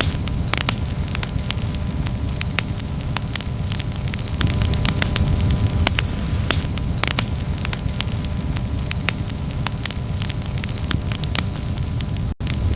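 Campfire burning, with frequent sharp crackles and pops over a steady low rumble of the flames. The sound drops out for an instant near the end.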